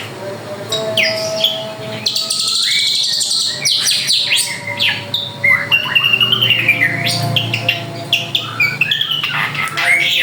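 Drongo singing continuously: a rapid, varied run of whistles and chirps, many notes sliding up and down in pitch.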